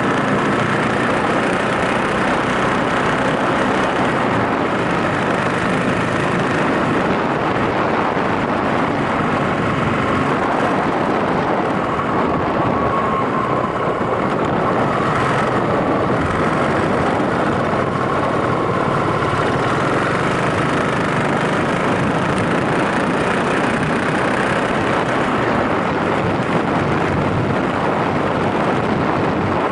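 Yamaha SRX400's air-cooled single-cylinder four-stroke engine running steadily under the rider, with a dense, even rush of noise.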